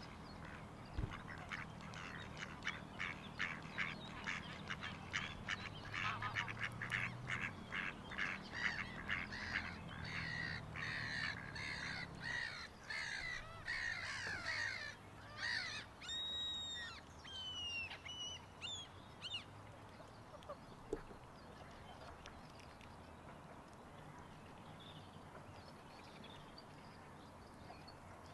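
Waterfowl calling in a fast run of short repeated quacks, about two to three a second, for roughly fifteen seconds. This is followed by a few whistled songbird notes about sixteen seconds in.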